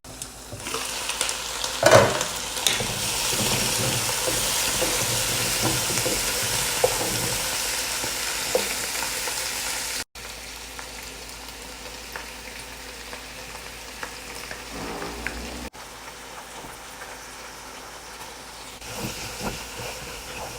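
Small birds and onion, pumpkin and peppers sizzling in oil or butter in a cooking pot, with a sharp knock about two seconds in. The sizzle drops suddenly to a quieter level about halfway through.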